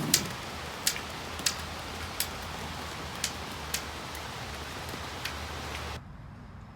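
Steady rain hiss with scattered sharp drips striking a hard surface, one every half second to a second; it cuts off abruptly near the end.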